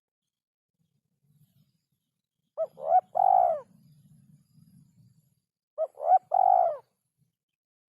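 Derkuku (spotted dove) cooing: two phrases about three seconds apart. Each phrase is two short notes followed by a longer one. This is a rhythm its keeper calls very hard to find.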